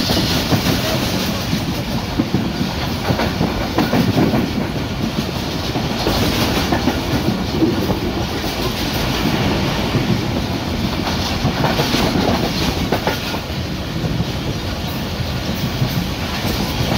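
Moving passenger train heard from inside the carriage: a steady, loud running rumble with the rattle and clatter of the wheels over the track.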